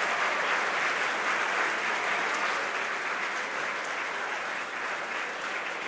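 Crowd applauding, fading slowly.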